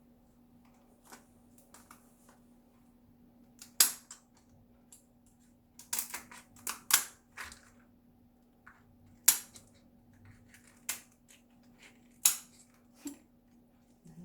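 Shell of a steamed lobster being cracked and broken apart by hand, a series of sharp cracks and snaps. The loudest come about four seconds in, in a cluster around six to seven and a half seconds, and again near nine and twelve seconds.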